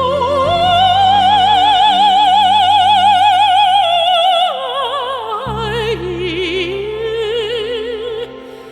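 Mezzo-soprano singing a long held high note with wide vibrato, then stepping down about halfway through to a lower held note, over a low instrumental accompaniment.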